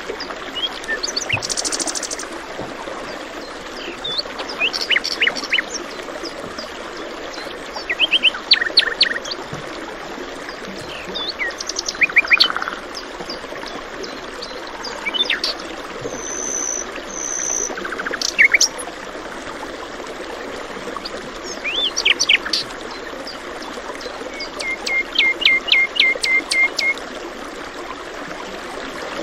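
Several birds singing and chirping over the steady rush of flowing water, with a quick run of repeated notes from one bird near the end.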